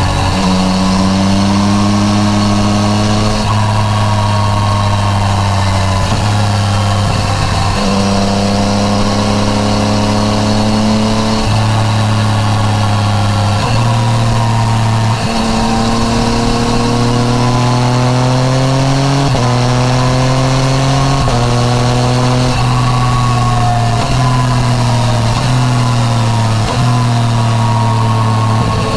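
Yamaha MT-09 Tracer's inline three-cylinder engine through an Akrapovic titanium full exhaust, under way on the road. The engine note drifts up and down and jumps in pitch every few seconds as the gears change.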